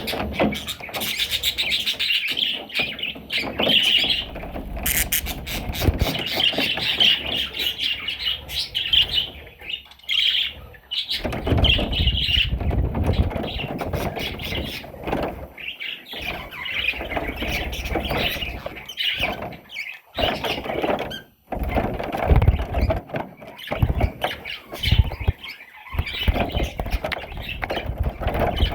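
Budgerigar chattering and warbling in a continuous stream of high chirps, with stretches of low rumble mixed in about a third of the way through and again near the end.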